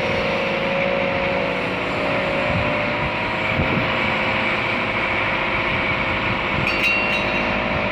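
Backhoe's diesel engine running steadily under work, with a steady whine over the engine noise; a couple of short clicks near the end.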